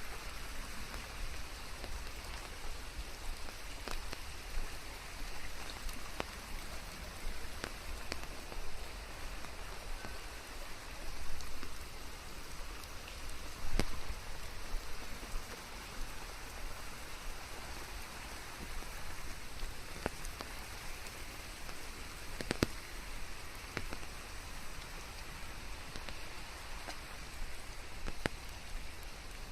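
Steady rain falling, with scattered louder single drops striking close by, the strongest about 14 seconds in.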